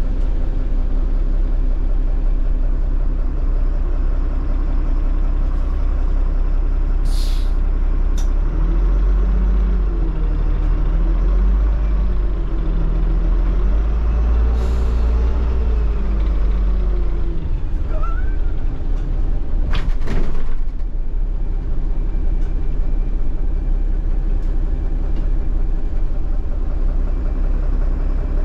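A first-generation Solaris Urbino 15 city bus on the move, heard from inside, its MAN diesel engine running through the Voith automatic gearbox. In the middle stretch the engine note rises and falls several times as it pulls through the gears. There are two short hisses of air, about a quarter and about two-thirds of the way in.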